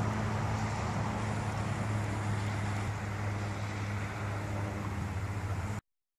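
An engine running steadily with a low, even hum, which cuts off abruptly near the end.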